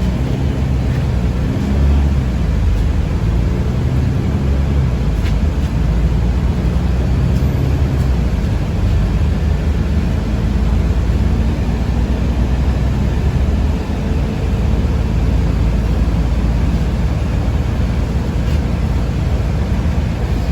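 Steady low rumble of a moving city bus or trolleybus heard from inside the passenger cabin: drive and road noise while driving between stops.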